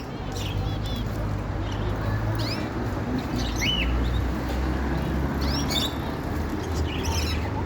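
Caged songbirds chirping: scattered short chirps and brief upward-sliding whistles every second or so, over a steady low hum.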